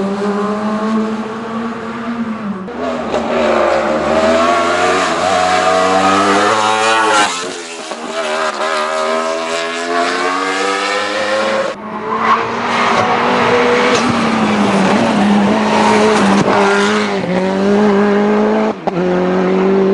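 Racing car engine under hard acceleration on a hill-climb course, revving up and shifting gear several times, the pitch climbing and then falling back at each shift. The engine note breaks off abruptly about twelve seconds in and picks up again at high revs.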